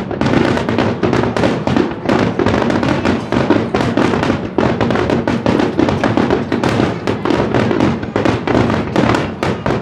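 Fireworks bursting in rapid, near-continuous succession at close range: a dense barrage of booms and crackles, several reports a second.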